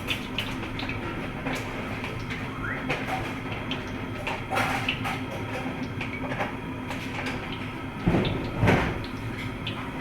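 Cooking noise under a steady rushing hum, with scattered metal clinks and knocks. There is a louder clatter about four and a half seconds in and a longer, louder clattering scrape near the end.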